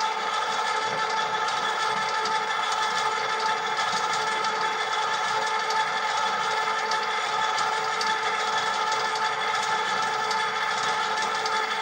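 KitchenAid Pro Line 7-quart stand mixer's DC motor running steadily at speed 2 with no attachment fitted: an even motor hum with a steady whine of several tones.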